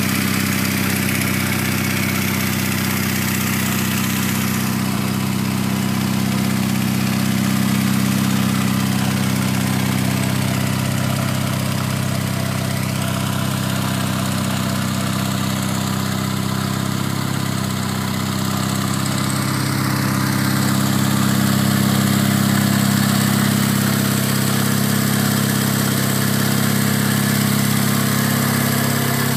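Yamaha motorcycle engine idling steadily, a little louder for a while about two-thirds of the way through.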